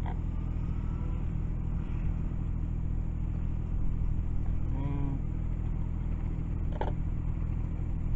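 Car engine running with a steady low drone. Faint short gliding sounds rise over it about five seconds in.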